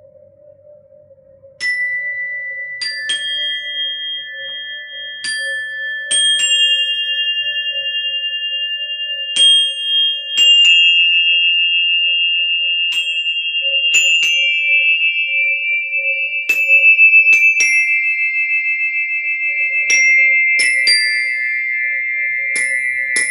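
High metal chimes struck one at a time, every second or two, each note ringing on long and overlapping the others. Under them a singing bowl keeps humming a steady low tone. The chimes come in about two seconds in.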